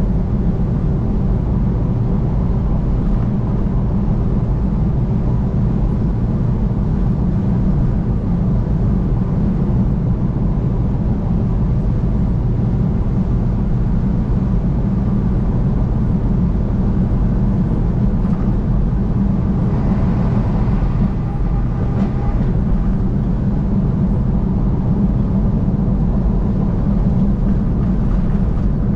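Vehicle driving at highway speed: a steady low rumble of engine and tyres on the road, with faint extra tones coming in briefly about twenty seconds in.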